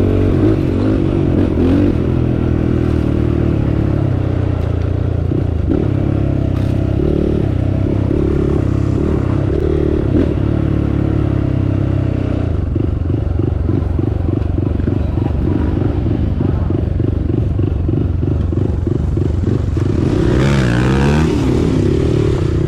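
Motorcycle engine running steadily, its note shifting as it rides. From about halfway it takes on a rapid chugging pulse.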